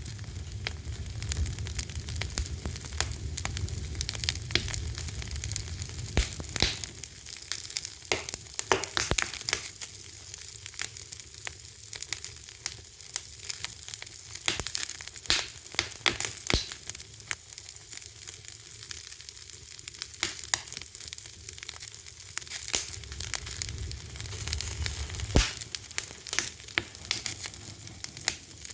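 A fire crackling with many sharp, irregular pops and snaps. A low rumble underlies it at the start and again near the end.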